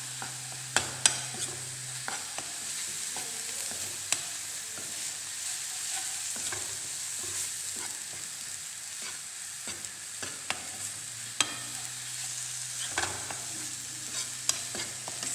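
Ground onion paste frying in oil with red chili powder and turmeric, sizzling steadily as a steel spoon stirs and mixes it, the spoon clicking and scraping against the pan now and then.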